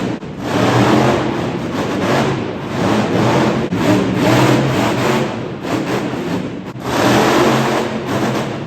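Monster truck engine revving hard, surging up and down, with a brief let-off a little before the end.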